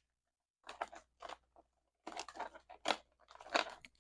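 Paper bills and cash envelopes rustling and crinkling in a run of short strokes as they are handled, starting about half a second in, with the sharpest crackles near the end.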